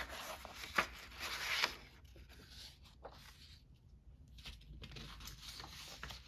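Paper being handled and rustled while collage scraps are picked out, with a louder burst of paper noise about a second in and lighter rustling near the end.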